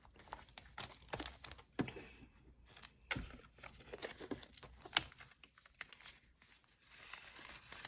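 Paper bills and envelopes rustling and crinkling as cash is stuffed into budgeting envelopes, with scattered light clicks and taps.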